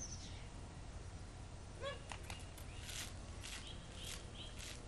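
A small bird chirping in short high notes that repeat about three times a second in the second half, over a low steady outdoor rumble. There is a brief lower call about two seconds in, and a few faint clicks.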